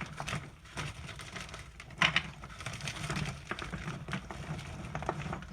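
Frozen chicken wings being handled and set into a glass dish: an irregular run of small crackles and clatters, with one sharper knock about two seconds in.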